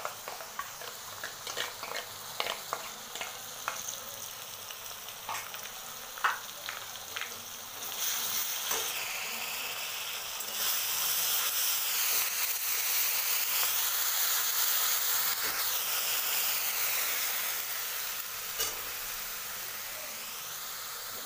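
Ginger-garlic paste frying with onions in hot mustard oil in a wok, stirred with a flat spatula. For the first few seconds the spatula clicks and scrapes against the pan and bowl over a light sizzle; about eight seconds in the sizzle turns loud and steady, then eases near the end.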